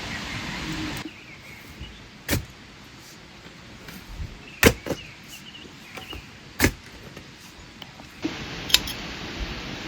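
A handful of sharp knocks at irregular intervals, about five, over a quiet background with faint bird chirps.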